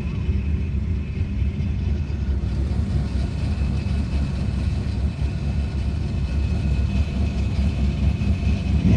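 Car engine idling, heard from inside the cabin of a turbocharged Ecotec V6 Holden Commodore: a steady low rumble with no revving.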